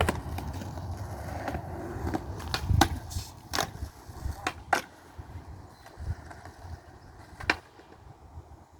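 Skateboards rolling with a low rumble, and several sharp clacks of boards hitting the ground, scattered through, the loudest about three seconds in.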